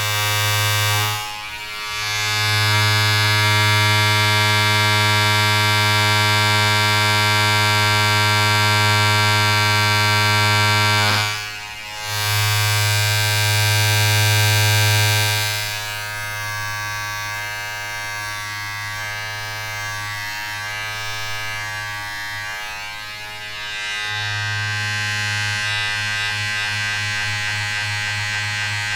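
A small electric motor buzzing steadily with a strong low hum. It dips briefly twice, about a second and a half in and again about twelve seconds in, then runs quieter and rougher from about sixteen seconds.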